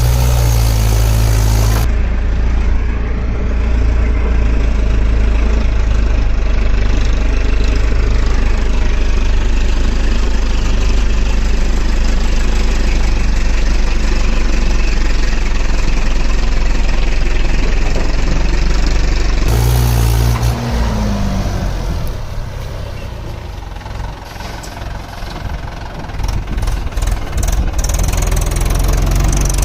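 Mahindra 575 DI tractor's four-cylinder diesel engine running loud and steady. About two-thirds of the way through the sound changes to a quieter, uneven stretch with short knocks, then builds again near the end.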